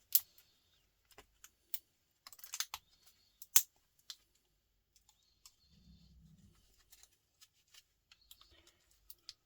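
Irregular sharp clicks and snaps of a small plastic housing being pried and cracked apart by hand, with a loud snap right at the start and another about three and a half seconds in.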